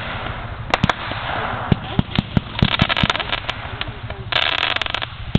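Fireworks going off: a scatter of sharp pops, with two stretches of dense crackling, about three seconds in and again near the end.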